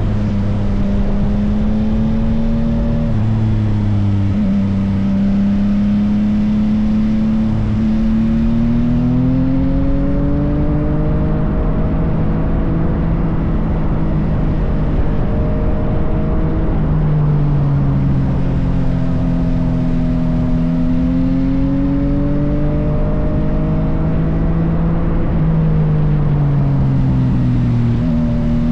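Yamaha XSR900's inline-three engine through an M4 full aftermarket exhaust, running continuously, its pitch slowly rising and falling several times as the throttle opens and closes, over a steady low rush.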